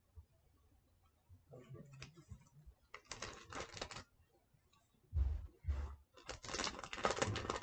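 Paper being handled, crinkling and rustling as it is folded and pressed by hand, with two dull thumps about five seconds in.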